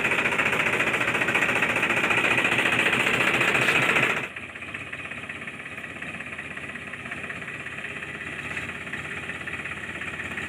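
A small motor running with a rapid, even rattle, dropping to a quieter level about four seconds in.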